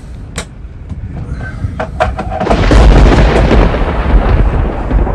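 Thunder rolling, heard from inside a caravan: a long, loud rumble that swells about halfway through and keeps going. A few sharp clicks come before it.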